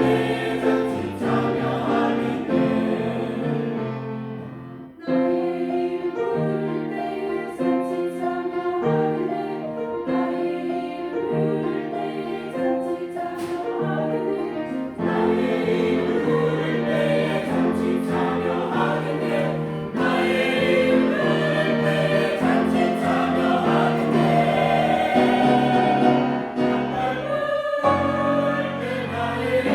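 Church choir singing a hymn in harmony, sustained chords changing about once a second, with a short break between phrases about five seconds in.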